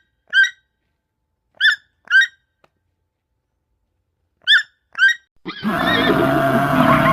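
A crow cawing in short harsh calls, mostly in pairs with pauses between. About five and a half seconds in, a loud, rough animal call starts suddenly and continues.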